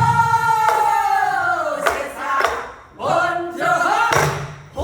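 Voices singing a Korean folk song in the buk byeongchang style, accompanied by strikes on the buk barrel drum. A long held note slides downward, then drum strokes come about two seconds in and again near the end as the singing resumes.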